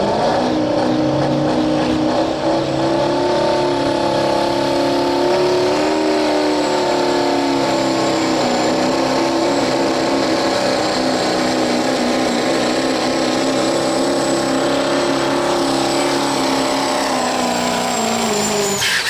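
Diesel pickup in the 2.6 turbo pulling class running flat out down the track while pulling the sled, with a steady high turbo whistle over the engine. It holds for most of the run, then the engine cuts off sharply near the end as the pull finishes.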